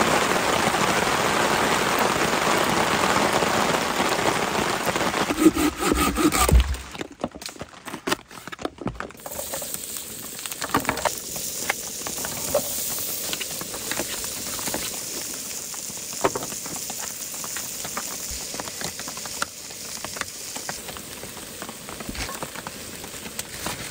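Steady heavy rain for the first several seconds. It stops abruptly, and a knife clicks and scrapes while slicing an onion on a plate, over a low steady background hiss.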